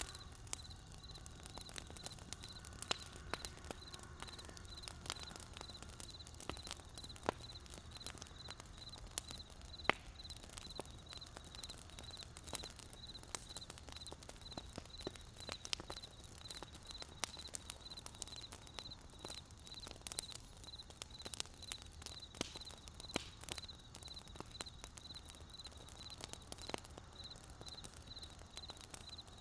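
Wood fire crackling: irregular sharp pops and snaps from burning wood, a few louder than the rest, over a low rumble.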